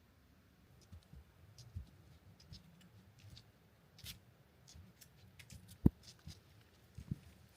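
Hiker's footsteps crunching on frozen, snowy forest ground: irregular soft thuds with crisp crackles, starting about a second in, with one sharper step near the end.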